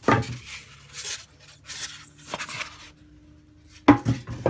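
Handling of the microwave's turntable plate and its packaging: a few knocks near the start and near the end, with rustling and tearing of wrapping in between.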